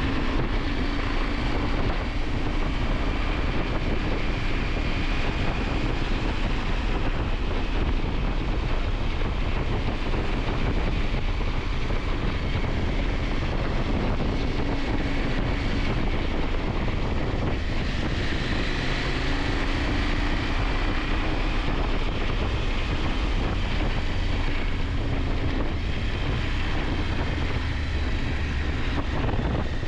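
KTM 890 Adventure's parallel-twin engine running while riding, its note drifting gently up and down, under a steady rush of wind on the action-camera microphone.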